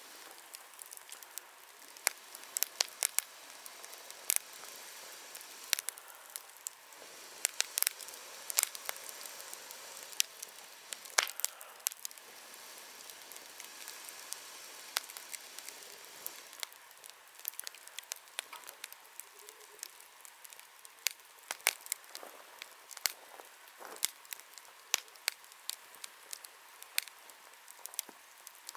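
Campfire crackling: sharp pops and snaps at uneven intervals over a steady hiss, busiest in the middle of the stretch.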